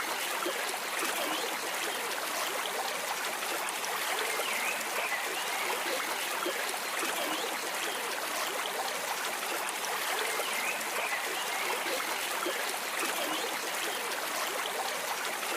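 Stream water flowing and trickling in a steady, unbroken babble.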